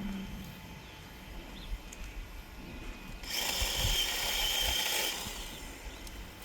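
Electric chainsaw running for about two seconds, starting about halfway through, with a steady high whine over a rushing noise.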